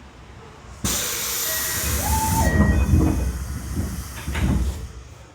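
Tokyo Metro 7000 series train door making an abnormal noise (ドア異音). A sudden loud hiss of air starts about a second in, then squealing tones and rumbling follow. The sound swells again near the end before fading.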